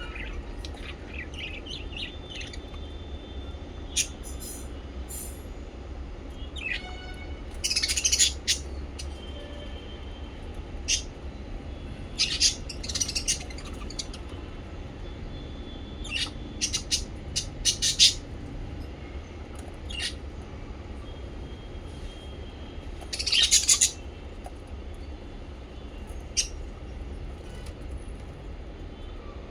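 Small pet parrots (lovebirds and budgies) chirping in short, scattered calls, with several louder bursts of chirping, over a steady low hum.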